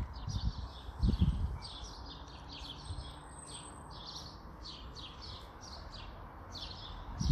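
Small birds chirping, many short high notes in quick succession, several a second. About a second in comes a brief low rumble, the loudest moment, like wind or handling on the microphone.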